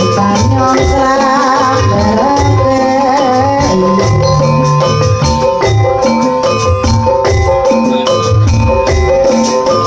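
Javanese jaranan gamelan music: drums beating under repeated notes from struck metallophones. A wavering melody line runs over it in the first few seconds.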